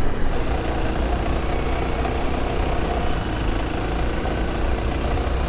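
Kawasaki KLX 300's single-cylinder engine running at a steady pace while the bike is ridden, with a faint high tick repeating about twice a second.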